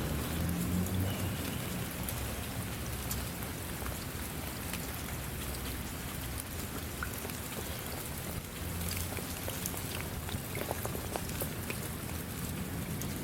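Steady rain falling, an even hiss dotted with many individual drop ticks, with a faint low rumble under it near the start and again about two-thirds of the way through.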